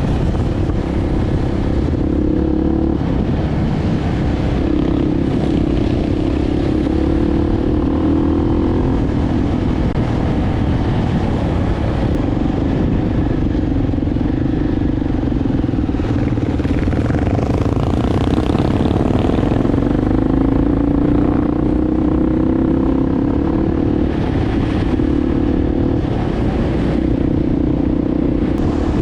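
Enduro motorcycle engine running under way, its pitch rising and falling again and again with throttle and gear changes, over a steady low rumble.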